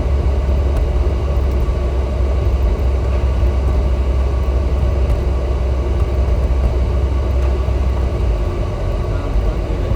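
Steady low road rumble and tyre noise inside a moving car's cabin.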